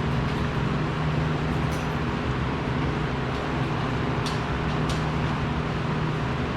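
Steady machinery hum with constant low tones, broken by a few brief high hissing ticks.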